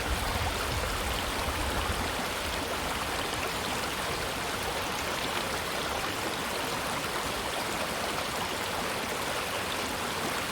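River water running over rocks: a steady rushing without breaks.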